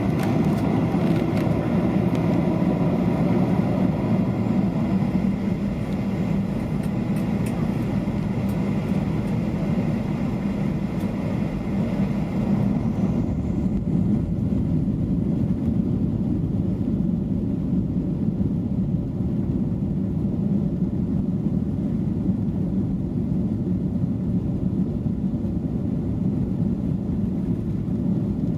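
Steady cabin noise of a Boeing 737-800 as heard from a passenger seat: an even rumble of its CFM56 jet engines and airflow, with the higher hiss thinning out about halfway through.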